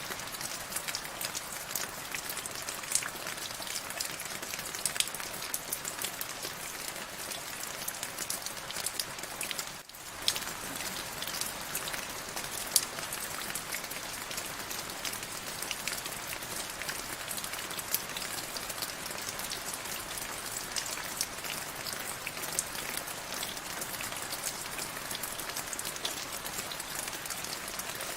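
Steady rain falling, with a dense patter of individual drops striking a surface. The sound drops away for a split second about ten seconds in, then carries on.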